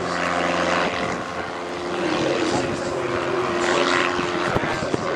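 Propeller engine of a Van's RV-8 light aircraft running steadily, a steady drone with a couple of sharp knocks near the end.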